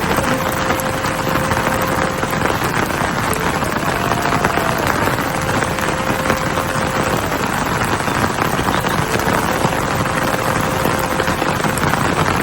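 Heavy rain falling steadily, an even dense hiss. A faint steady tone comes and goes three times under it.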